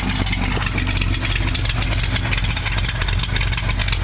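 Ford 390 FE big-block V8 with a Competition Cams 268 camshaft idling steadily through short headers and dual Thrush turbo mufflers, giving the lopey cam idle.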